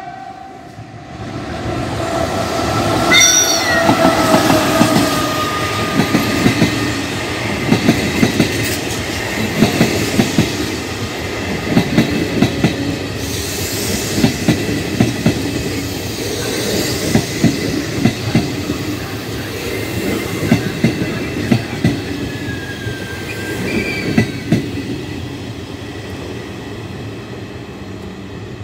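Push-pull commuter train with an E464 electric locomotive passing close by, its wheels clacking over rail joints in an uneven rhythm. Short falling wheel squeals come about three seconds in and again later on.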